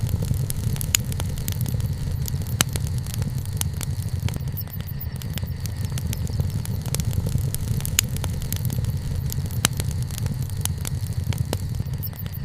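Wood campfire burning: scattered sharp crackles and pops, a few louder ones spread through, over a steady low rumble.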